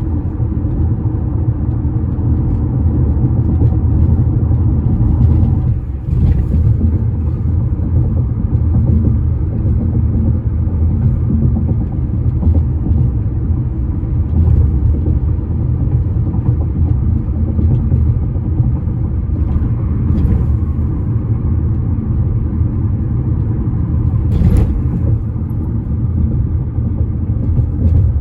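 A bridge's low, steady rumbling drone, with a few held low tones in it, the rumble typical of traffic crossing. Three brief sharp clicks or knocks stand out, about six, twenty and twenty-four seconds in.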